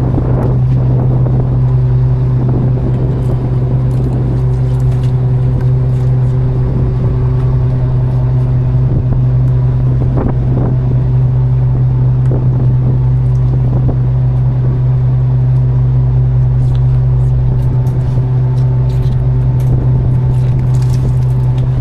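A fishing boat's engine running steadily: a constant low hum with overtones, and a few faint knocks over it.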